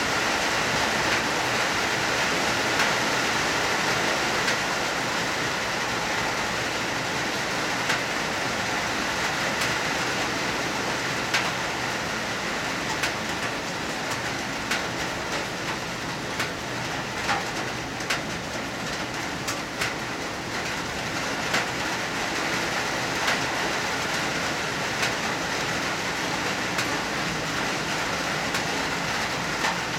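Hard rain falling steadily, with sharper individual drop hits now and then.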